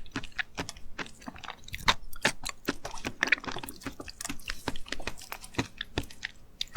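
Close-miked chewing of raw seafood sashimi: steady, irregular wet smacking with many sharp clicks.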